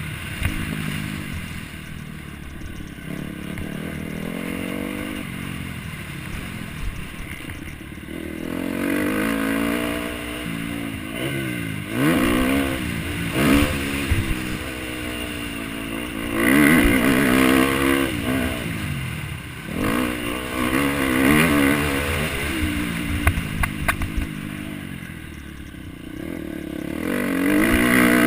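MX1 motocross bikes' engines revving hard and backing off over and over as they race round the track, the pitch climbing and dropping with each throttle change. The engines are softer for the first several seconds and grow louder from about a third of the way in.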